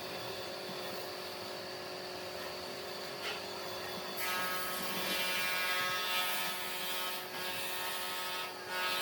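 Electric power tool motor running steadily with a whine. It becomes louder and harsher about four seconds in, as if cutting into or working the wood.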